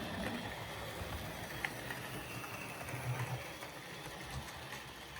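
Model steam locomotive running on its track: a steady small electric motor whir with the wheels rolling over the rails, and a single sharp click about one and a half seconds in.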